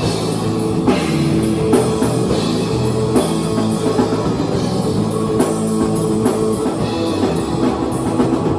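A small rock band jamming live, with drum kit hits under sustained guitar chords.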